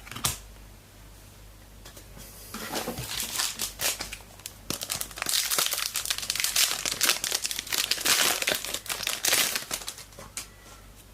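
Trading card pack wrapper being torn open and crinkled in the hands. After a brief click near the start, the crinkling builds from a couple of seconds in and is loudest in the second half.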